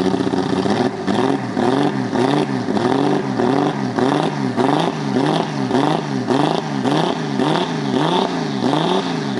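A car engine being revved up and down over and over in a steady rhythm, about one and a half to two blips a second, its pitch rising and falling evenly each time.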